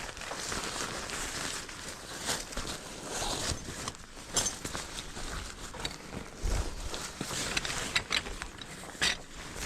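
Camping gear being handled while a tent is pitched in the rain: rustling of fabric and bags, irregular light knocks and clicks, and footsteps, over a steady hiss of rain.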